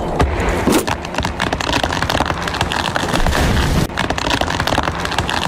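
Heavy rain in a storm: a dense, steady crackling hiss.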